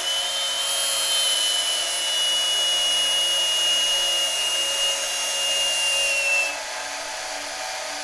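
Cheap Harbor Freight electric drill running with a steady high whine while boring a hole into a plastic cue-ball shifter knob. About six and a half seconds in the whine cuts out and the drill drops to a quieter steady run.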